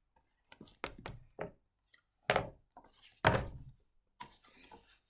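Picture book being handled: a handful of dull knocks and thuds, the two loudest about two and a third and three and a third seconds in.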